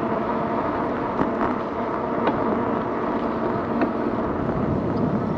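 Steady riding noise from an electric bike on a paved trail, heard from a handlebar-mounted GoPro: tyre and wind rush with a few light ticks, the loudest about two and four seconds in.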